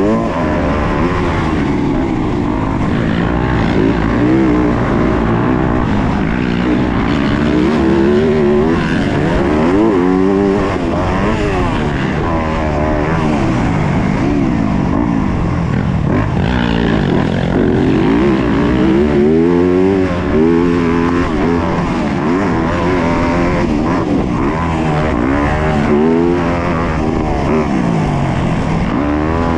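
Yamaha YZ250F's 250 cc single-cylinder four-stroke motocross engine under race throttle, its pitch climbing and dropping again and again as the throttle is opened and closed through the gears.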